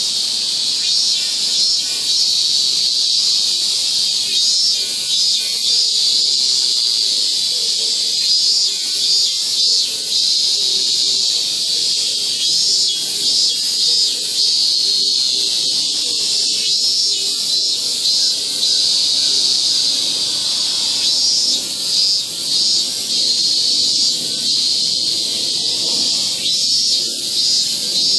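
Cicadas singing: a steady, dense, shrill buzz that holds without a break, at the early, still fairly calm stage of the morning before the full chorus.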